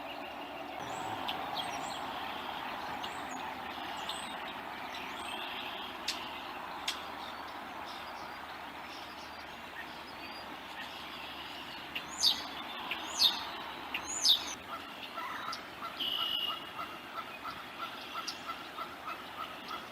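Outdoor nest-camera ambience: a steady rushing background with small birds chirping. Past the middle come three loud, sharp calls, each falling in pitch, and then a steady series of short notes at about three a second.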